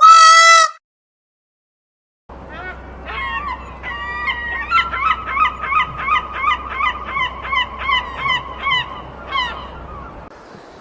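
Animal calls: one short, loud, wavering call, then after a pause of about a second and a half a long run of repeated honk-like calls, about two a second, that fade out near the end.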